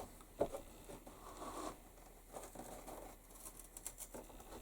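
Knife cutting through leather on a cutting board: faint rasping strokes with a few small clicks and knocks.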